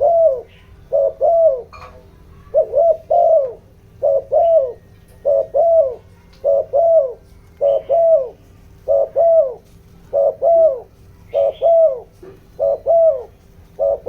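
Spotted dove cooing in quick, urgent paired notes, each falling at the end, a pair about every second and a quarter. This is the decoy bird's rapid 'thúc gù' coo, used as a lure call to rouse wild doves.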